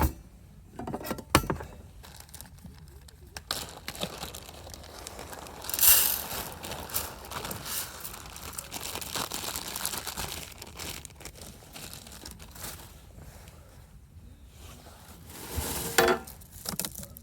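Crinkling and rustling of something being handled, with scattered clicks and a louder rustle about six seconds in and again near the end.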